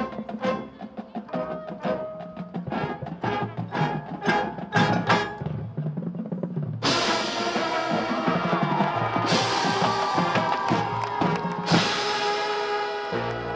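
Marching band playing. First comes a run of quick, rhythmic struck percussion notes; about seven seconds in, the full band comes in louder with sustained chords and two crashes, easing to softer held tones near the end.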